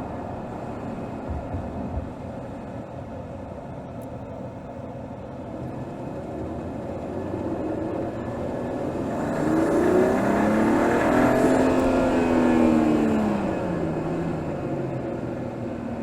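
Mercedes GLS 450's 3.0-litre turbocharged straight-six, heard from under the hood during city driving. It runs steadily at first, then its pitch climbs smoothly and grows louder as the car pulls away. After a few seconds the pitch falls back as the revs drop.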